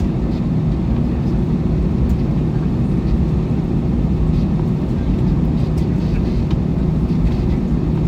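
Steady low rumble and hum inside the cabin of an Airbus A321 on the ground before takeoff.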